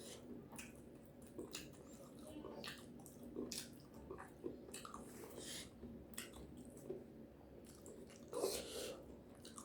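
A person chewing and biting mouthfuls of food close to the microphone: wet mouth sounds with scattered short crisp clicks, and a louder burst a little over eight seconds in.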